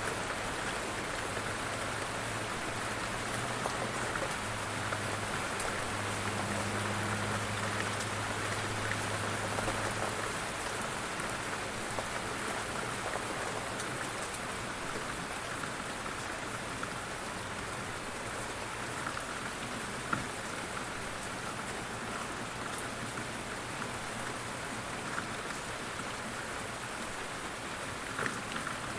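Steady rain falling on a surface, an even hiss with scattered drop ticks. A low hum runs underneath for the first ten seconds or so.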